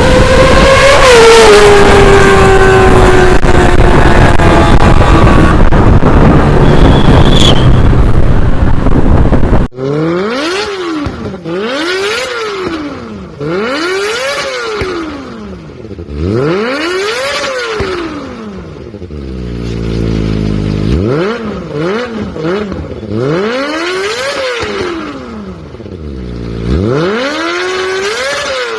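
Kawasaki ZX-25R inline-four engine through an aftermarket racing exhaust. For the first ten seconds it runs loud with its pitch falling. After a cut it is revved repeatedly, each rev climbing and dropping back, every two to three seconds.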